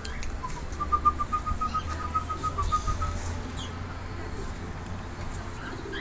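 A bird's trill: a quick run of even whistled notes at one steady pitch, about six a second, lasting about two seconds, with a short higher call near the end, over a steady low rumble.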